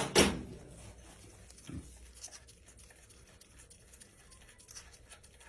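Small metal engine parts being handled by hand: two sharp clicks at the start, then faint scattered ticks and light scraping, with one small knock a little under two seconds in.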